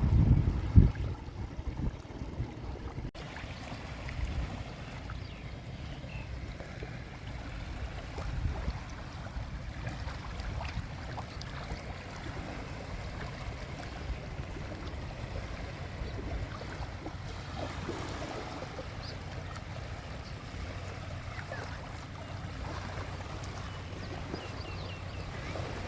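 Small sea waves lapping and washing against the shore in a steady wash of water noise. A couple of loud low thumps come in the first second.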